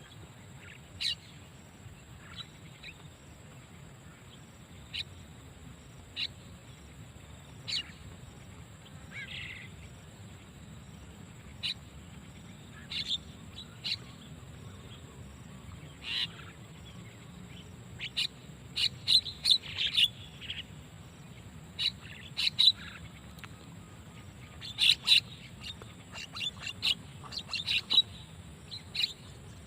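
Short, sharp bird calls, single and a second or two apart at first, then coming in quick, louder clusters from about eighteen seconds in, over a faint steady background noise.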